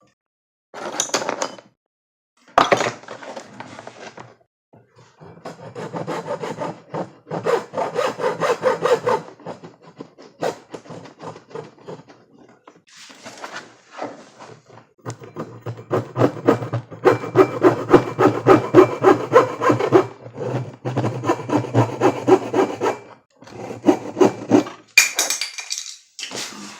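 Hand sawing: rapid back-and-forth strokes in bursts of a few seconds with short pauses, the longest run in the second half.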